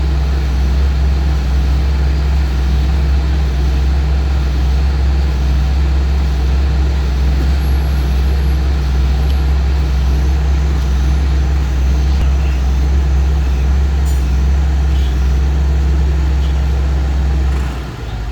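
A heavy engine running steadily with a deep drone. The drone drops away sharply near the end.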